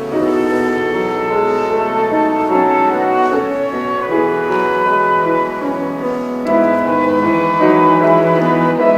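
A flute, cello and piano trio playing a contemporary chamber piece: several sustained notes overlap and shift every second or so.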